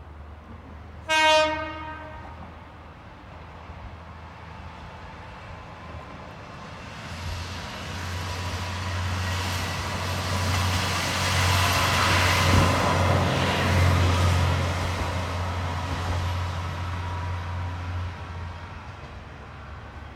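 Kanto Railway Jōsō Line diesel railcar giving one short horn blast about a second in, then passing over a level crossing: engine and wheel noise build from about seven seconds, are loudest around twelve to fourteen seconds, and fade by about eighteen seconds.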